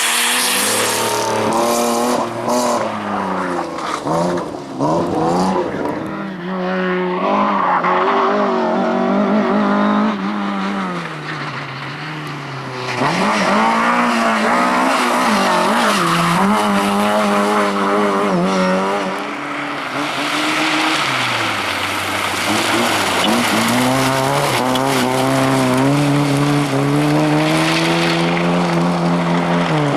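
Rally car engines revving hard, their pitch climbing and dropping repeatedly with gear changes and lifts off the throttle, with tyres squealing and skidding. The sound fades somewhat a little after ten seconds in, then comes back loud.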